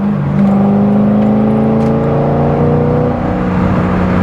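Corvette C6 Z06's 7.0-litre LS7 V8 under way: the revs jump suddenly at the start, the pitch climbs steadily under acceleration for about three seconds, then drops at a gear change and holds steady.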